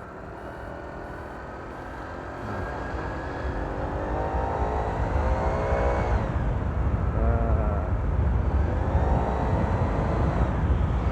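Honda PCX scooter accelerating: the CVT's PCX CBU pulley fan gives a turbo-like whine that rises with the revs, breaks off about six seconds in, then rises again twice. A low rumble grows beneath it as speed builds.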